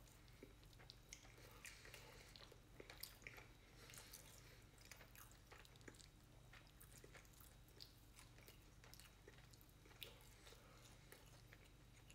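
Faint close-up chewing and mouth sounds of a person eating fried chicken, with scattered small clicks and crackles, over a low steady hum.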